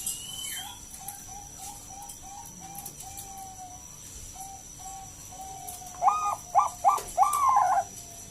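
Zebra dove (perkutut Bangkok) cooing. A faint run of short, evenly spaced notes comes first, then about six seconds in a loud phrase of four or five rising coos, the last one drawn out.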